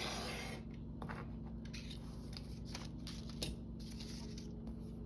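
Paper and card being handled and worked by hand: a short rustle at the start, then scattered small rustles, snips and clicks, with one sharper click about three and a half seconds in.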